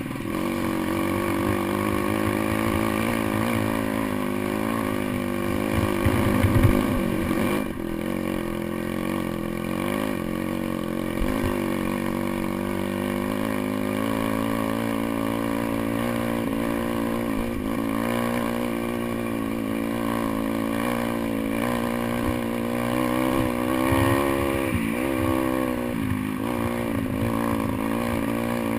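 Pit bike's single-cylinder engine running under constantly changing throttle, its pitch rising and falling as it is ridden off-road, with chassis rattle and wind rumble on the microphone. There is a louder burst about six to seven seconds in.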